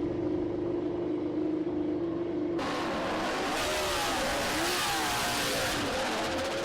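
MotoGP race motorcycle engines. A steady held note runs until about two and a half seconds in, then the sound grows louder, with the revs sweeping up and down.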